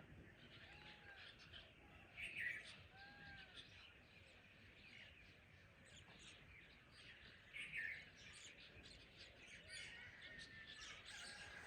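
Faint dawn chorus of several wild birds calling. A short arched whistled note repeats a few times early on, and two louder calls stand out about 2.5 and 7.7 seconds in.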